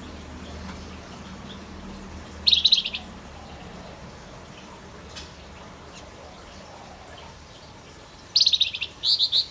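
Male wergan Jawa (Javan fulvetta) singing short bursts of rapid, high trilled notes: one about half a second long some two and a half seconds in, then two more in quick succession near the end.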